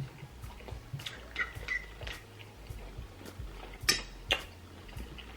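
Eating sounds: soft mouth clicks and chewing with light clinks of cutlery on a plate, the sharpest clicks coming about four seconds in.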